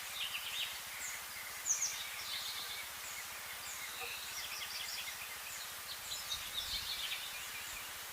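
Small birds chirping and twittering in quick, repeated short calls, over a steady hiss of flowing river water.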